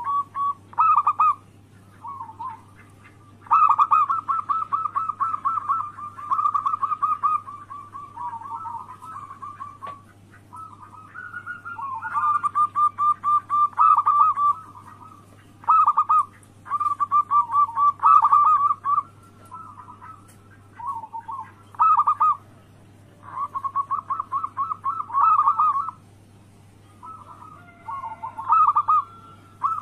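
Zebra doves (perkutut) singing their cooing song: phrases of quick staccato notes run together, each a second to a few seconds long, with short pauses between them.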